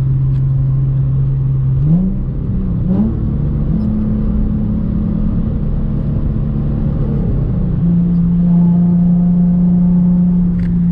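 Nissan 350Z's 3.5-litre V6 droning through ISR test pipes, an H-pipe and a Concept Z Performance cutback exhaust while driving, with a raspy edge. The pitch climbs about two seconds in as the revs rise, holds steady, then settles a little lower a few seconds before the end.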